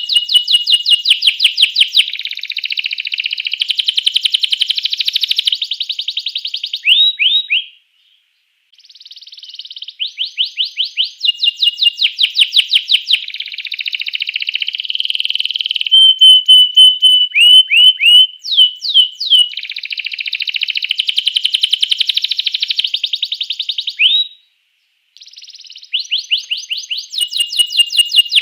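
Domestic canary singing a long song of rapid repeated trills and buzzy rolls with quick upward-sweeping notes, broken by two short pauses.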